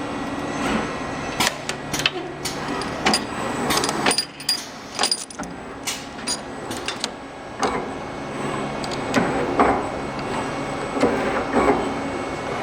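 3D wire bending machine running a bending cycle: a string of sharp metallic clicks, clacks and knocks from its moving tooling, over a faint steady motor whine.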